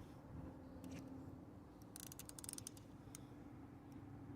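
Fishing reel's clicker giving a few faint clicks with a short run of them about two seconds in, over a faint low hum.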